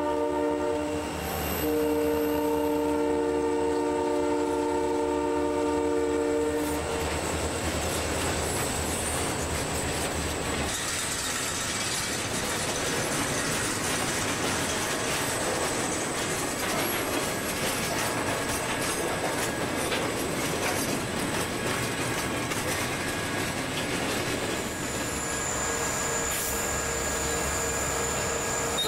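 Diesel freight locomotive horn blowing a short blast and then a long one of about five seconds, several notes sounding together. It gives way to the steady rumble and wheel clatter of a freight train rolling past. A horn sounds again more faintly near the end.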